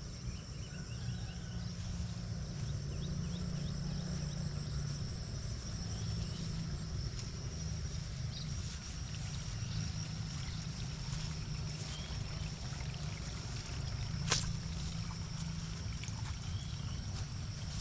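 Rice-field ambience: a steady, high-pitched trilling of insects such as crickets, with short scattered bird chirps, over a constant low rumble. A single sharp click about fourteen seconds in.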